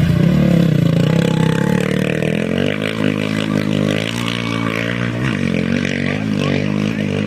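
A rally motorcycle engine running hard nearby. Its pitch falls over the first second, then holds fairly steady, with brief drops and rises in revs about five and six seconds in.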